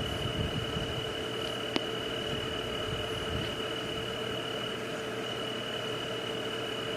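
Steady white-noise hiss with two held tones, one high and one low, running under it, and a single sharp click a little under two seconds in.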